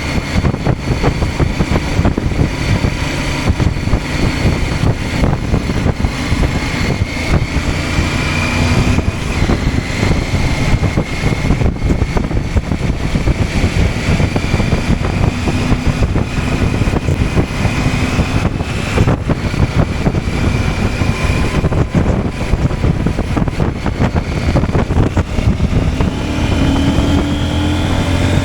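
CFMOTO 800MT Touring's parallel-twin engine running while riding, under a dense rush of wind noise. The engine pitch rises near the end as the bike accelerates.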